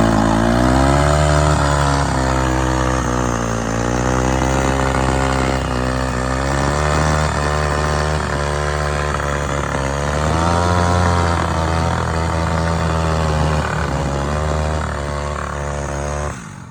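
Motorcycle engines revving again and again, the pitch rising and falling every second or two over a steady low running note.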